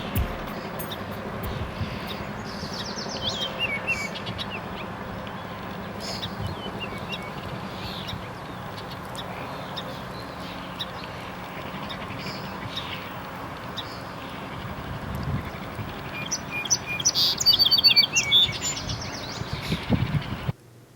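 Birds calling in short chirps and gliding notes over steady background noise, loudest in a quick run of calls near the end.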